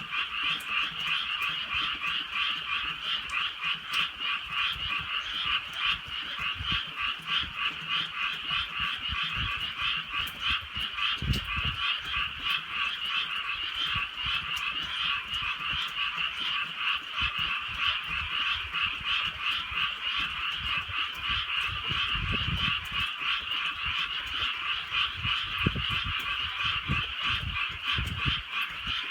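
A dense chorus of many frogs croaking together, a continuous fast-pulsing din, with light drizzle falling. A few low rumbles come through about eleven seconds in and again near the end.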